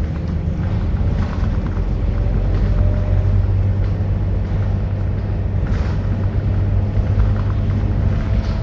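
Scania K230UB city bus's diesel engine running steadily, a low even drone that holds its pitch, with a few faint brief rattles.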